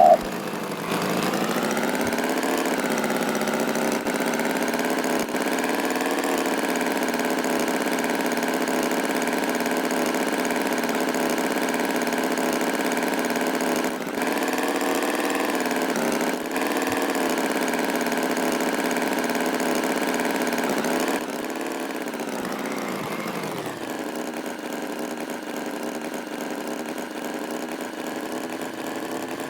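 Tractor engine running steadily, its pitch wavering slowly. About two-thirds of the way through it drops in level and its pitch slides down, then it runs on more quietly.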